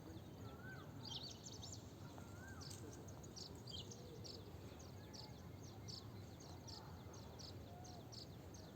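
Faint chirping of small birds: many short, high chirps in quick irregular succession, with an occasional lower whistled note that rises and falls, over a low background rumble.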